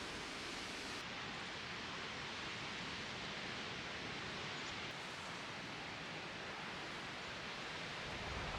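Steady rushing hiss with no distinct events.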